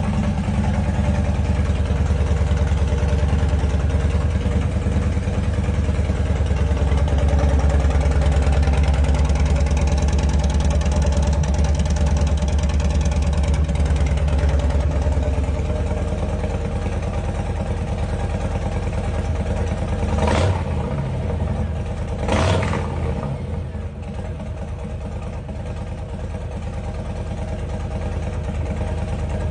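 Harley-Davidson Low Rider S's Milwaukee-Eight 117 V-twin idling through a baffled Tab Performance slip-on exhaust after a cold start. Its deep low rumble eases about halfway through, and it is blipped twice, about two seconds apart, before settling back to idle.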